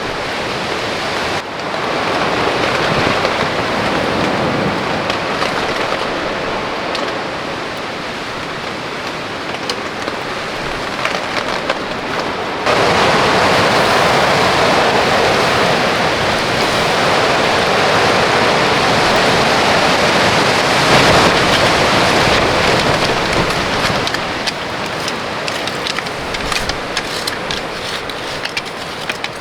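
Heavy rain and wind in a storm: a loud, steady rush of rain noise with no separate drops or tones. It steps up sharply in loudness twice, about a second and a half in and again about halfway through.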